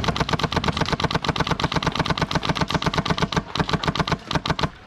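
HPA airsoft rifle with a Polarstar F2 engine and silencer firing full-auto: one long rapid burst of sharp, evenly spaced shots that stops shortly before the end.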